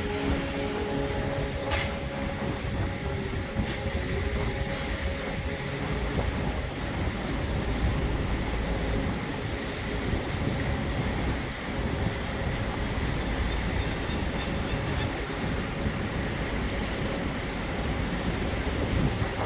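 Motorboat engine running at a steady speed, a continuous low rumble with water and air noise over it.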